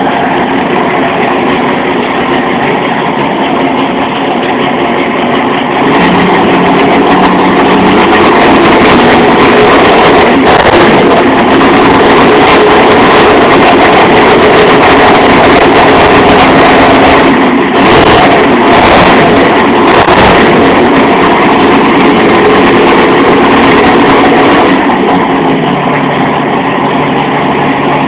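Engine of a modified Chevrolet Chivo, fitted with a TC 4000 camshaft, 9.5:1 compression, a Weber carburettor and twin points, running with a rough rumble. It idles, is brought up to a higher held speed about six seconds in, is blipped a few times partway through, then drops back to idle near the end.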